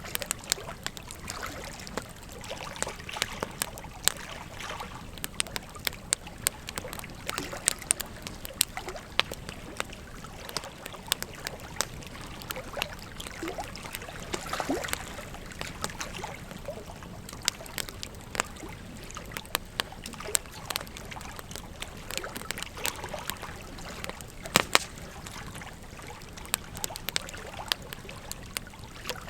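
Wood fire crackling with frequent sharp, irregular pops over the steady rush of flowing river water; one of the loudest pops comes late on.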